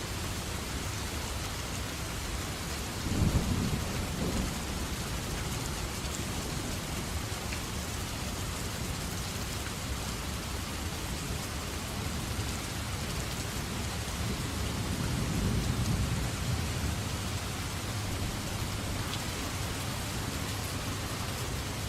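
Steady heavy rain falling, with thunder rumbling twice: a sudden low peal about three seconds in and a slower rolling rumble that swells and fades past the middle.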